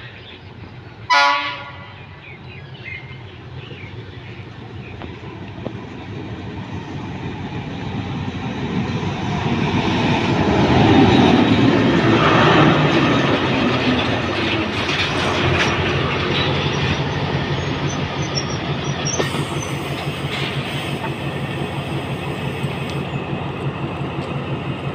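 A short blast of the Alsthom diesel-electric locomotive's horn about a second in. Then the locomotive's engine and wheel rumble grow louder as it runs into the station and passes, loudest about halfway through, followed by the steady rolling of passenger carriages along the platform.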